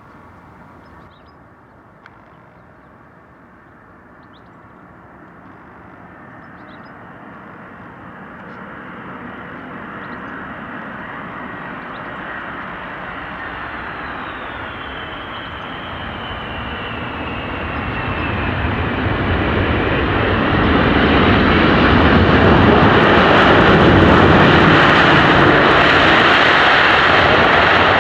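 Jet airliner's engines approaching and passing, growing steadily louder over about twenty seconds, with a high fan whine that falls in pitch as the aircraft goes by.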